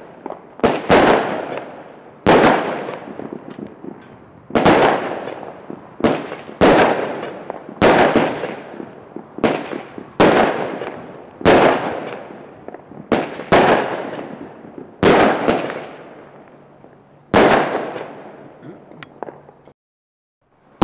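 Fireworks going off in a rapid series of sharp bangs, roughly one every second or so, each fading away before the next. The bangs stop briefly near the end.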